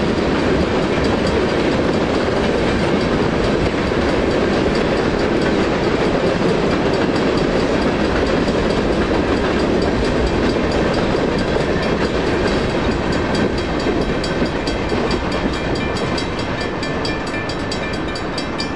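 Freight train of tank cars rolling past a grade crossing, a steady rumble with wheels clacking over the rail joints, easing off near the end as the last cars clear. A crossing signal bell rings steadily throughout, standing out more clearly in the later seconds as the train noise fades.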